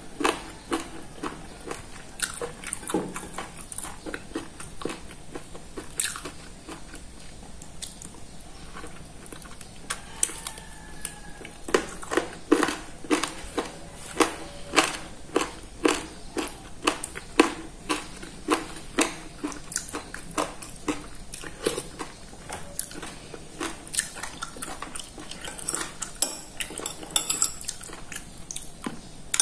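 Close-up chewing and biting of a mouthful of fried chicken, with wet mouth clicks about twice a second. Near the end a metal spoon scrapes and clinks on a ceramic plate.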